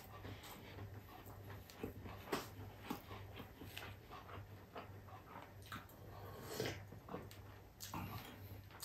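Close mouth sounds of eating: chewing and lip-smacking on garlic fried rice and beef, a string of short, irregular wet clicks and smacks.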